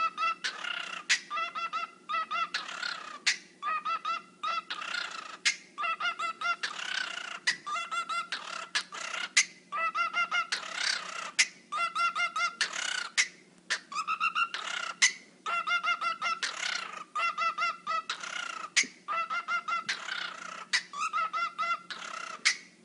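Bird calls sampled and cut into a rhythmic electronic music track. Short pitched squawks repeat in quick runs, broken up by sharp percussive hits.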